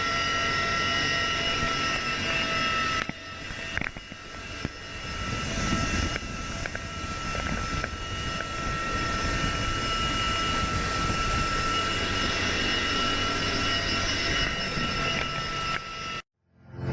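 Aircraft engine running steadily, with a constant high-pitched whine over a rushing noise. The sound changes abruptly about three seconds in, then carries on steadily until it cuts off just before the end.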